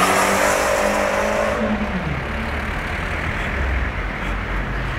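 Fiat 500 Abarth's 1.4-litre turbocharged four-cylinder engine pulling away under throttle, a steady note that falls in pitch about two seconds in and fades into road noise.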